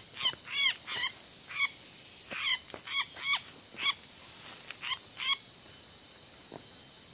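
A bird giving about ten short calls, each rising and falling in pitch, irregularly spaced over the first five seconds or so, with a steady high insect drone underneath.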